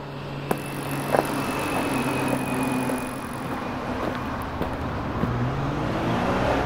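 Car engine running and revving up, its pitch rising near the end, with a few light clicks.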